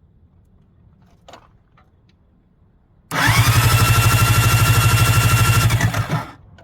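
Yamaha SJ700 SuperJet's electric starter cranking the engine, starting about three seconds in: a whine that rises and then holds steady over a fast, even pulsing, lasting about three seconds and then stopping abruptly.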